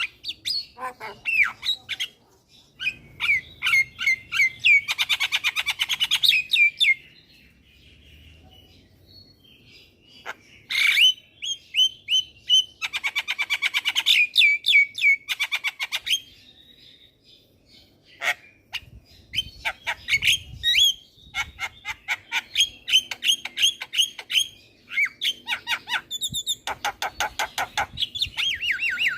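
Javan myna in full song: a varied run of sharp chirps, whistles and harsh squawks, with fast rattling trills, in several bouts separated by short pauses.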